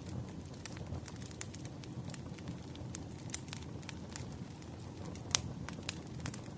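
Campfire crackling: a steady low rumble from the burning wood with irregular sharp pops, the loudest a little past five seconds in.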